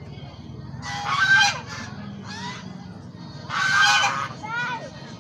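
Ducks quacking loudly in two harsh bouts, about one second and three and a half seconds in, with a few fainter calls between and after.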